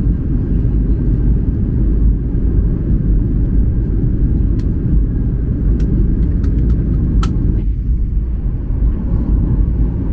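Cabin noise inside a Boeing 737-800 in flight: a steady low rumble of engines and airflow, with a few faint clicks a little past the middle.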